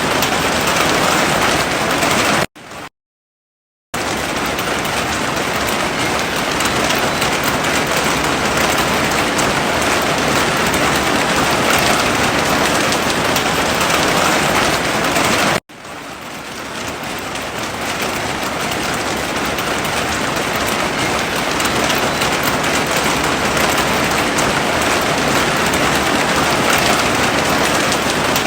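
Heavy rain falling in a steady, dense hiss. It cuts out to silence for over a second about two and a half seconds in, and drops out again briefly about halfway through, fading back in over a couple of seconds.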